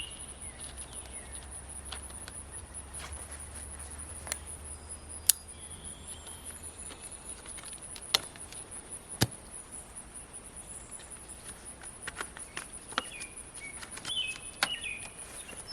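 Steady, high-pitched pulsing drone of insects in a summer field, with a few sharp clicks and snaps scattered through it and brief bird chirps near the end.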